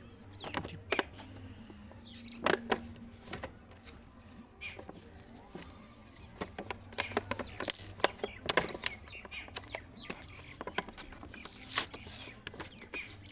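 A toy's box and packaging being opened by hand: irregular clicks, taps and crinkles of cardboard and plastic, over a low steady hum.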